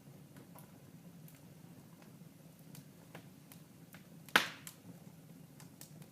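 Wood fire crackling: scattered small clicks and one loud pop about four seconds in, over a low steady hum.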